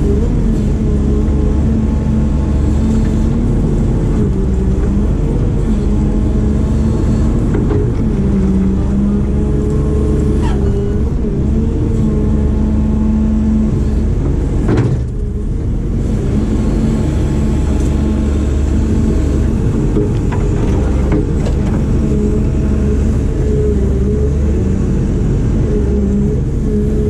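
Diesel engine of a heavy construction machine running steadily under working load, its pitch rising and falling slightly as the load changes, with one sharp knock about halfway through.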